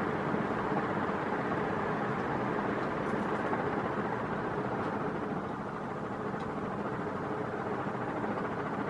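1987 NuTone Proline 48-inch industrial ceiling fan running steadily on its highest speed: a constant rush of moving air with a faint motor hum.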